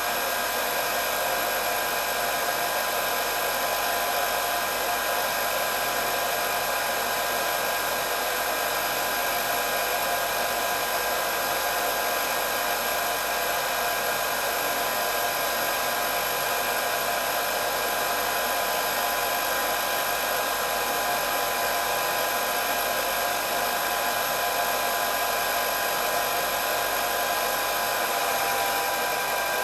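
Electric hair dryer running continuously: a steady rush of blown air with a constant motor whine, no change in speed.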